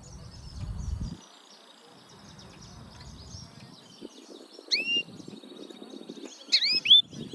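Yellow-fronted canary singing a fast, continuous twittering song, with loud rising whistled calls once near the middle and three in quick succession near the end. A low rumble is also heard in the first second.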